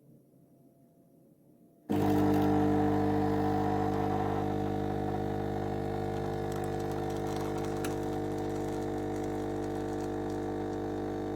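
About two seconds of near silence, then the Klarstein espresso machine's pump starts abruptly with a steady electric hum that eases slightly in level and keeps running.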